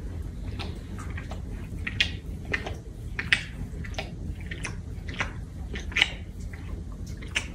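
Wet mouth sounds of a pet nibbling and licking another animal's fur: irregular smacks and clicks, over a low steady hum.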